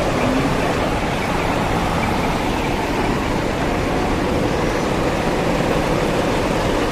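Steady din of large diesel truck engines running, with no sudden events.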